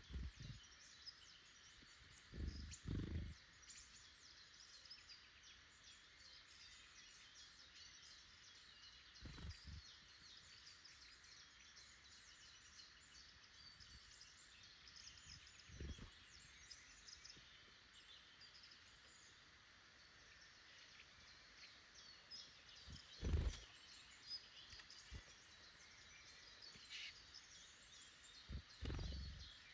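Faint woodland bird chorus, many small birds chirping and singing at a distance. Dull low thumps come now and then, about six in all, the loudest a little past the middle.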